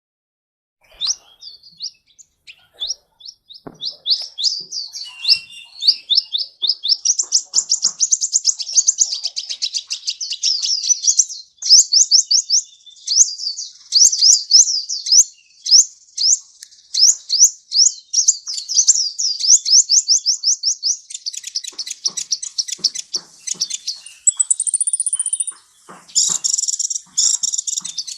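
Sunbird ('kolibri') song: a long, fast run of high, thin sweeping chirps, several a second, running into trills. It turns into a higher buzzy note and denser chattering near the end.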